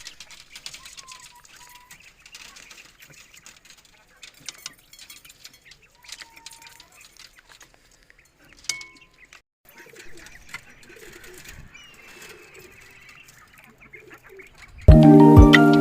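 Faint, scattered bird calls: a few short, separate calls and some low chatter. Background music comes back in near the end.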